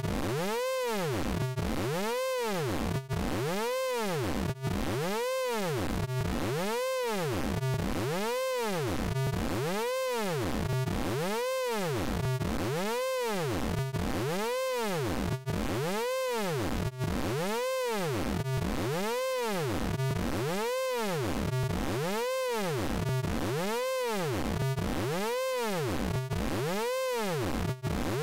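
Synthesized tone from the Orange Vocoder VST plugin, its pitch sweeping up and back down about every three-quarters of a second in an unbroken, even loop.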